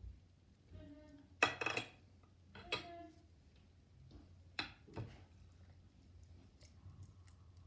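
Cutlery clinking and scraping against a breakfast dish. There are a few separate clatters, the loudest about one and a half seconds in, and sharper clinks near three and five seconds in.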